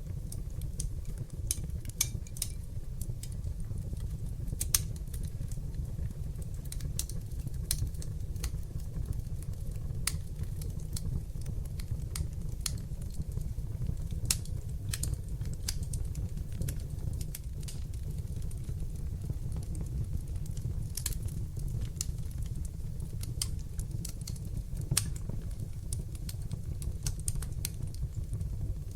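Wood fire burning in a fireplace: scattered sharp crackles and pops at irregular intervals over a steady low rumble of the flames.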